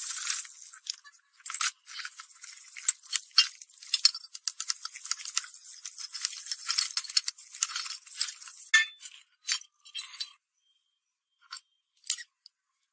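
Dense scratching and clicking on a hard surface, like brushing or scraping, that thins to a few scattered clicks after about ten seconds.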